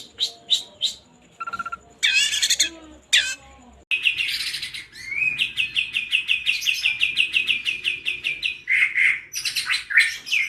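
Songbirds chirping and singing. Short, sharp chirps give way abruptly, about four seconds in, to one bird's fast, even run of repeated notes, roughly seven or eight a second, followed by a few harsher chirps near the end.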